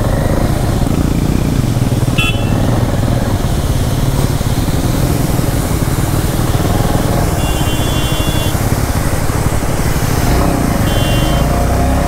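Motorcycle engine running steadily while riding, with a dense low rumble. Short horn beeps sound three times: briefly about two seconds in, longer around eight seconds, and briefly again near the end.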